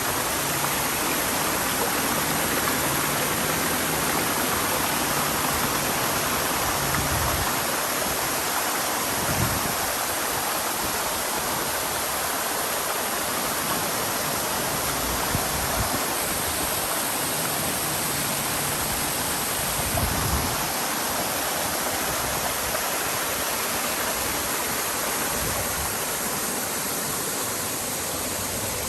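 Steady rushing of flowing water from a stream or waterfall, with a couple of faint low thumps.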